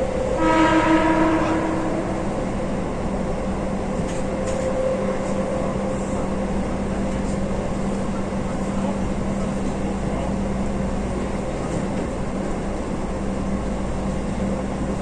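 Keihan limited express train running, heard from inside the front car: a steady rumble with a constant low hum. A short pitched tone sounds about half a second in and lasts a little over a second.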